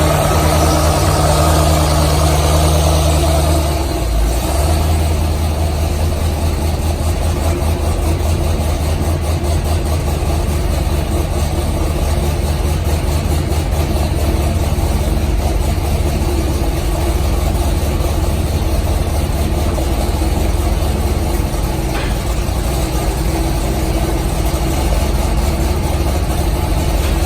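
Vehicle engine running steadily at idle, a little louder for the first four seconds, then settling to an even hum.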